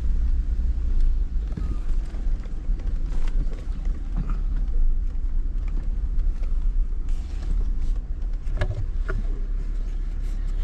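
Jeep driving slowly along a rough dirt road: a steady low rumble with scattered knocks and rattles, and a louder cluster of knocks near the end.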